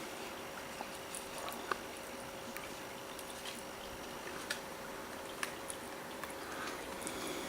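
Birds pecking at food, with scattered sharp clicks and taps of beaks on seed and the feeding surface, over a faint steady hum.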